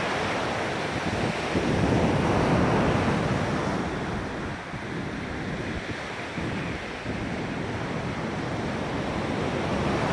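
Ocean surf breaking and washing up the beach, a steady rushing that swells in the first few seconds, eases in the middle and builds again near the end, with wind rumbling on the microphone.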